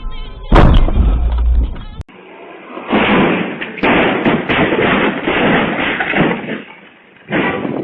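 A sudden loud crash about half a second in, typical of a vehicle collision caught on a dashcam, with ringing and a low rumble after it. After a cut come a few seconds of rough, pulsing, wavering noise.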